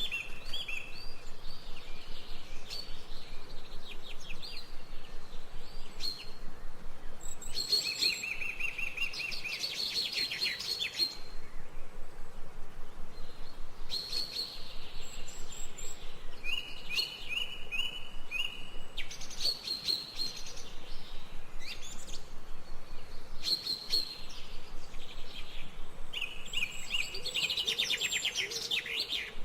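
Songbirds chirping, with runs of quick high chirps and fast trills coming in clusters, broken by short pauses.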